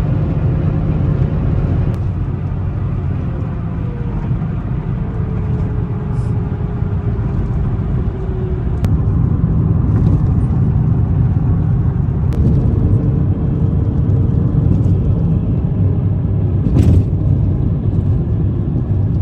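Steady low road and engine rumble inside a moving car, with a faint hum that drifts slightly in pitch and a single knock near the end.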